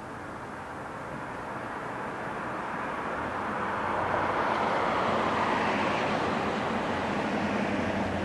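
A motor vehicle approaching, growing louder over the first five seconds or so, then holding steady with a low engine hum.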